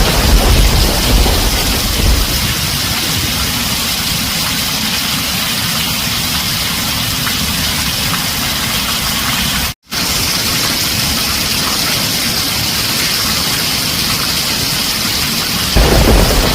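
Heavy rain falling on a tin roof, a steady hiss, with a low rumble of thunder fading over the first couple of seconds and another thunder rumble starting near the end. About ten seconds in, the sound cuts out completely for a split second.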